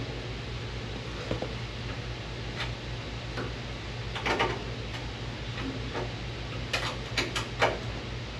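Scattered light taps and clicks of hand tools and sheet metal being handled, a few single knocks and then a quick cluster of three or four near the end, over a steady low hum.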